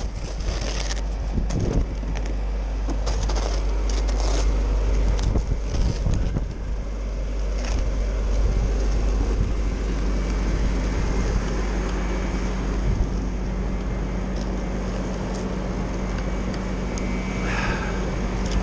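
Blizzard wind buffeting the microphone with a heavy rumble, with scattered clicks in the first few seconds and a steady low hum joining about ten seconds in.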